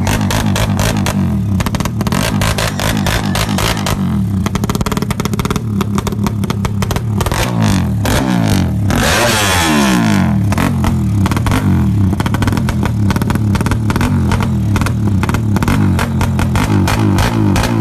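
Drag-tuned motorcycle engine running hard with a loud, rapid-firing exhaust, revved up and down; about halfway through the pitch drops and then climbs again, with a burst of hiss.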